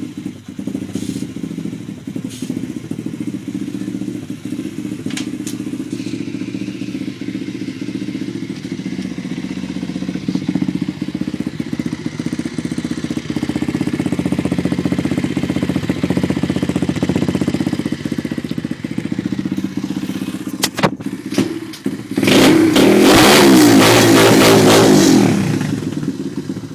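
Lifan 125cc four-stroke single-cylinder dirt bike engine idling steadily, with a few sharp clicks. About 22 seconds in it is revved hard for about three seconds, then the sound falls away.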